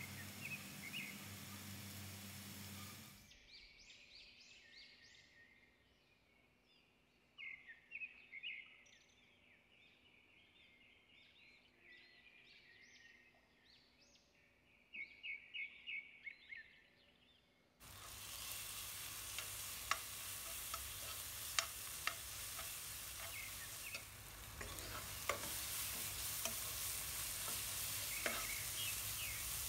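Sliced onions and tomatoes sizzling in oil in a nonstick pot. About three seconds in, the frying sound drops away into a quieter stretch of about fifteen seconds with faint high chirps. Then the sizzling returns, louder, with clicks and scrapes from a spoon stirring the spiced onion-tomato mix against the pot.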